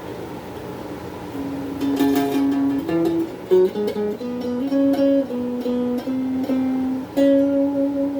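Donner Q1 HSS Strat-style electric guitar played through a small amp: after a faint ringing start, a slow single-note melody of sustained notes begins about a second and a half in.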